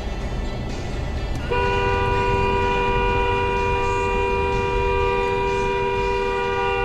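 A vehicle horn held down without letting up, two notes sounding together, starting about a second and a half in over low road rumble.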